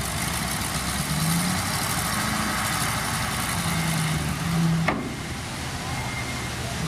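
Heavy earthmoving machinery's diesel engine running steadily, a little louder for a few seconds, with a single sharp knock about five seconds in.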